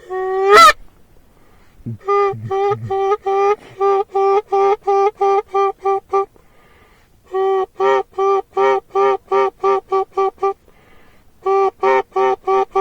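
Canada goose call blown in the blind to bring in a flock: a loud note that jumps up in pitch, then three runs of quick, identical honks at about three to four a second, with short pauses between the runs.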